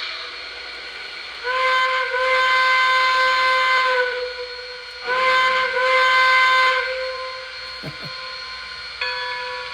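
Lionel O-gauge 4-6-0 model steam locomotive's onboard sound system playing two long steam whistle blasts, one about a second and a half in and one about five seconds in, over a steady steam hiss.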